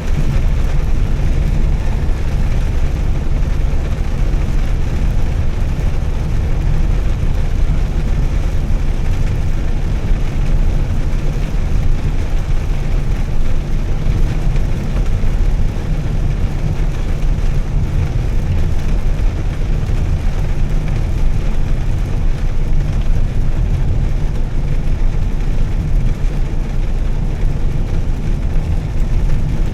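Volvo S60 T6's turbocharged inline-six with a Heico aftermarket exhaust, cruising at a steady speed: an even, low engine and exhaust drone with tyre and road noise and no revving.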